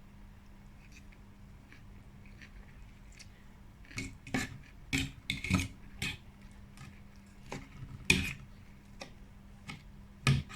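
Cutlery clinking and scraping against a dish while eating: a quiet start, then a string of sharp clatters from about four seconds in, the loudest a little after eight seconds. A faint steady hum runs underneath.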